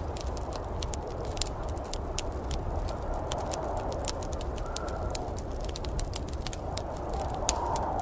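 Wood fire crackling, with frequent sharp pops and snaps over a steady low rumble and hiss of the flames.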